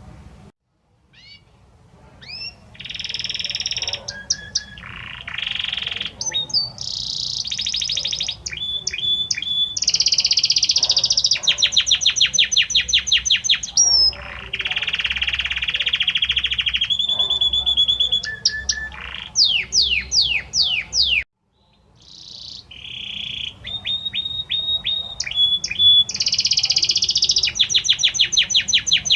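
A male Belgian canary sings to its female: a long, varied song of rapid trills, rolls and sweeping notes. The song breaks off for about a second roughly two-thirds of the way through, then starts again.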